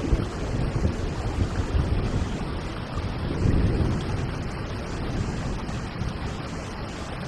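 Steady rain, with a low rumble of thunder that swells and fades about halfway through.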